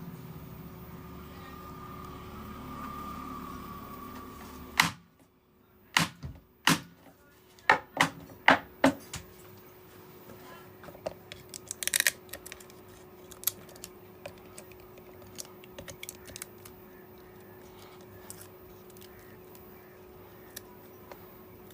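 Sharp clicks and taps of small tools and phone parts being handled on a repair bench. They come in a quick run of about eight loud ones after the first five seconds, a short cluster a little later, then fainter scattered ticks over a steady low hum.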